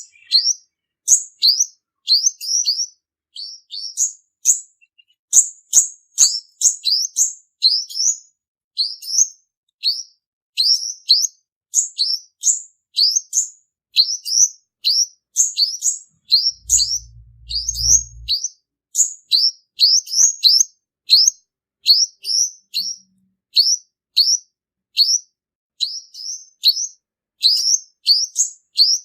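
Male olive-backed sunbird singing: a continuous run of short, high, sweeping chirps, two or three a second.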